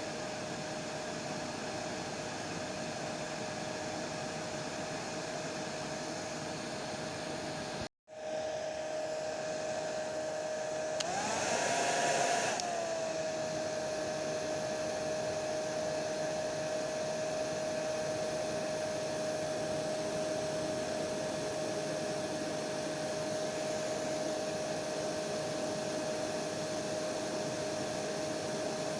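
Hair dryer running with a steady whine over its airflow hiss. It cuts out for a split second about eight seconds in, then about three seconds later runs louder and higher in pitch for a second or two before settling back to its steady tone.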